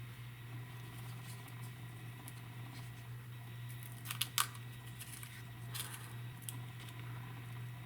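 Papery tomatillo husk being pulled and peeled by hand: a few short crackles, the loudest about four seconds in, over a steady low hum.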